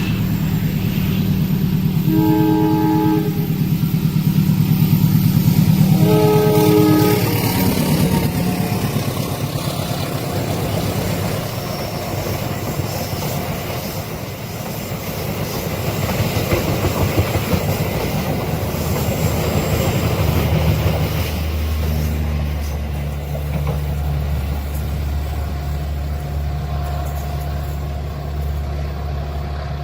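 A passing train: a diesel locomotive's engine running, with two horn blasts, each about a second long, near the start. The rolling clatter of the train's cars follows, and a steady low engine drone returns near the end.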